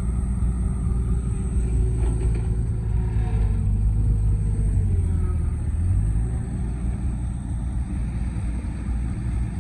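A heavy vehicle's engine running with a deep, steady drone. Its pitch rises a little under load, then drops back about six seconds in.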